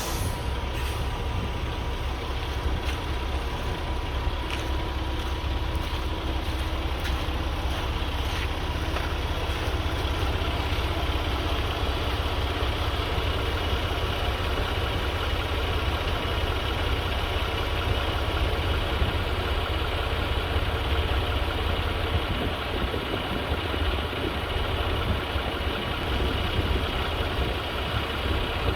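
Diesel engine of a 2014 Kenworth W900 tri-drive tank truck idling steadily, with a low, even rumble and a few faint ticks.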